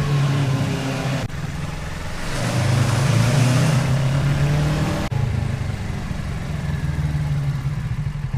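Motorcycle engine running under way, with abrupt cuts between clips. In the middle it is opened up and gets louder, with a rush of wind noise.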